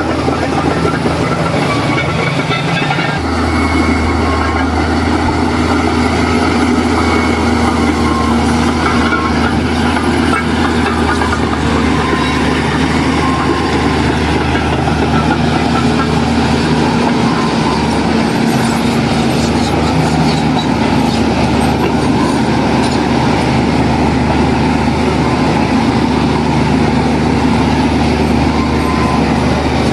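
Heavy diesel earthmoving machine running steadily under load, its low engine note stepping up and growing louder about three seconds in.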